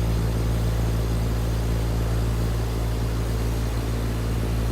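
Outdoor air-conditioning condensing unit running in cooling mode: a steady low compressor hum with a constant fan hiss.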